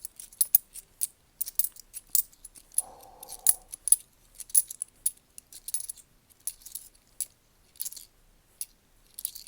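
10p coins clinking against one another as they are flipped through and stacked by hand: a quick, irregular run of sharp, high-pitched metallic clicks.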